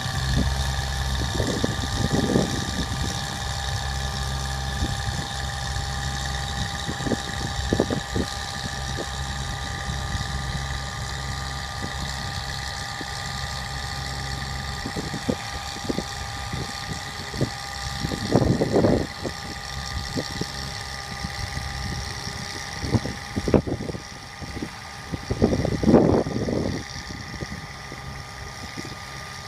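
Bucket truck engine running at idle with a steady high whine over it. Scattered short knocks and two louder rushing bursts come about two-thirds of the way in and near the end. The engine note thins out partway through.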